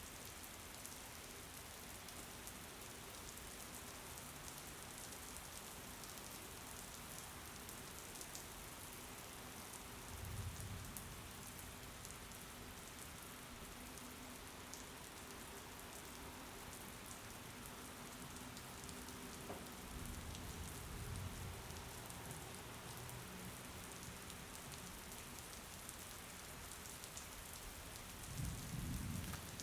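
Steady rain pattering, with fine drop sounds over an even hiss. Brief low rumbles come about ten seconds in, around twenty seconds, and again near the end.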